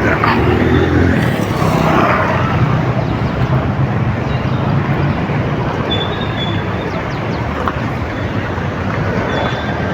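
Road traffic noise with a vehicle's low engine rumble, loudest in the first few seconds, then a steady hum.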